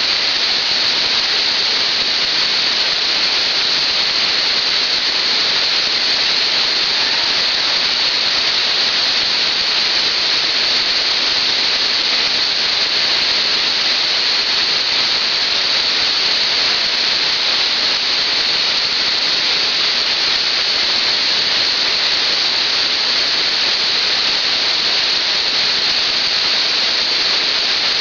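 A waterfall's falling water making a loud, steady rush that does not change.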